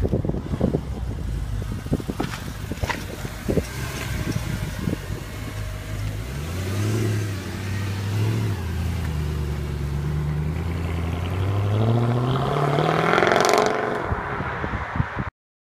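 Mercedes C63 AMG's 6.2-litre V8 pulling away: a low, uneven rumble with scattered crackle, then two short blips of revs. After a steady stretch it revs up strongly as it accelerates away, then the sound cuts off abruptly just before the end.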